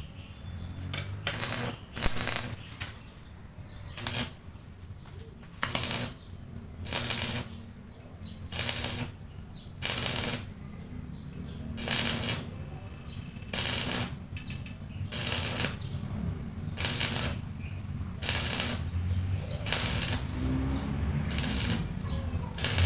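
Repeated rasping strokes of a hand abrasive tool, such as a file or sandpaper, being worked over a motorcycle rim, about one stroke every second to second and a half and a little uneven in spacing. A steady low hum runs underneath.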